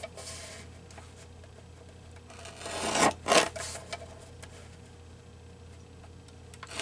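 Thin paper being cut while trimming around a collage piece, in short rasping strokes, the loudest cluster about three seconds in.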